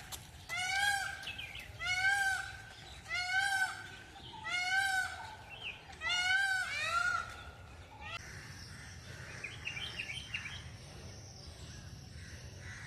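Peacock (Indian peafowl) calling over and over, a loud call about every second and a bit, six times, then falling silent about two-thirds of the way through, leaving faint outdoor background with a few weak chirps.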